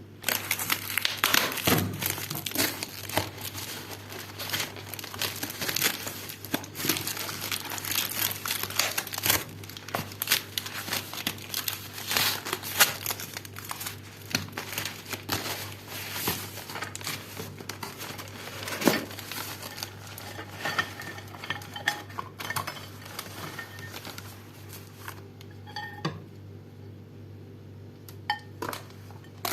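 Plastic wrapping and packaging on a new microwave oven crinkling and rustling as it is handled, with clinks of hard parts. The handling thins to a few scattered clicks near the end, over a low steady hum.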